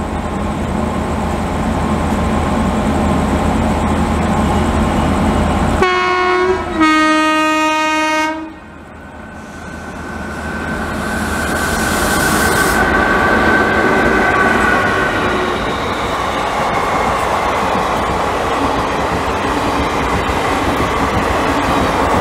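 Indian Railways WAP-7 electric locomotive sounding its horn twice about six seconds in, a short blast then a longer one, over the rumble of the approaching train. After that, a passenger train of ICF coaches running past at speed, its rumble rising and then holding steady.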